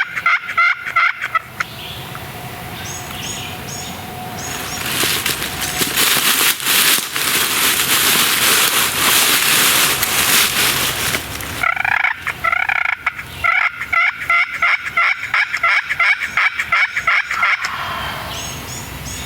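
Turkey yelping in a quick, even run of about four or five calls a second, once at the start and again for several seconds in the second half. In between, a stretch of steady rushing noise.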